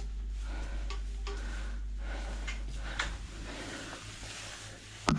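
Plastic sink trap and waste fittings being handled, with scattered light clicks and knocks and one sharp knock near the end, over a low steady hum that fades about three seconds in.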